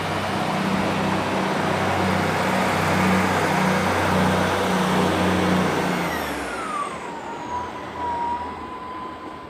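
A train passing through the station: a loud rush and rumble with a low pulsing drone, then about six seconds in a whine that drops in pitch as it goes by, and the sound fades.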